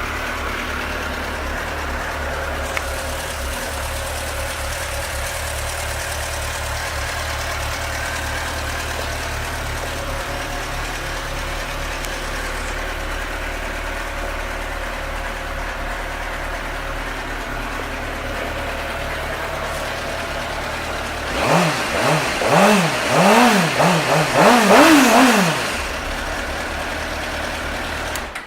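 A 2005 Suzuki GSX-R600's inline-four engine idling steadily, then revved in about six quick blips, each rising and falling, starting about three quarters of the way through. It then settles back to idle.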